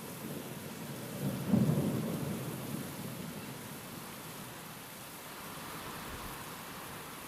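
A rumble of thunder over steady rain. It swells quickly about a second and a half in and fades over a couple of seconds.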